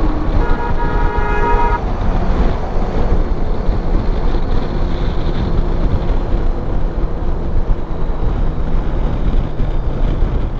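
A vehicle horn sounds once, a steady tone held for about a second and a half. It rides over the continuous rush of wind and road noise from a moving motorcycle.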